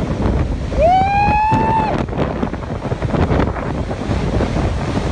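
Strong wind buffeting the microphone over rough, rushing water, with one drawn-out high cry about a second in.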